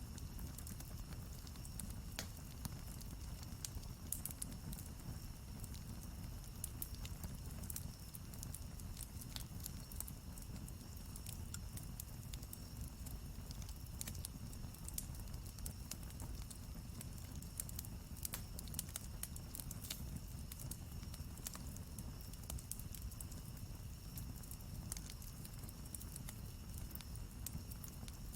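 Campfire crackling, with frequent small sharp pops over a low steady rumble.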